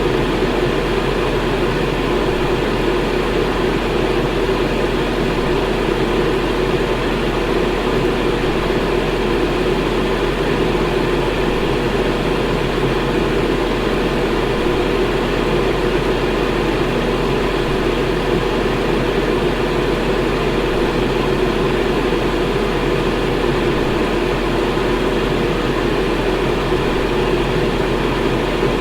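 Electric fan running steadily, a constant whooshing hum with no change in speed.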